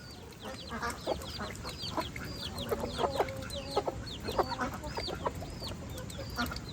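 Chicks peeping over and over in short, high calls, with mother hens clucking low among them. A steady low rumble lies underneath.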